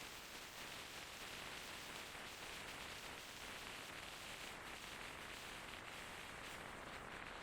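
Faint, steady hiss of a rainy street: rain and wet surfaces, with no distinct events.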